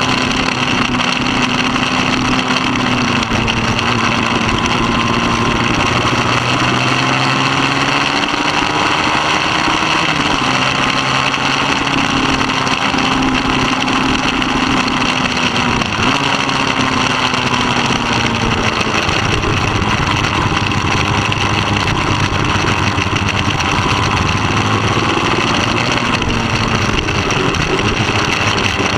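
Middleweight superbike engine at racing speed, its pitch repeatedly rising and then dropping sharply as it is run up and down through the gears.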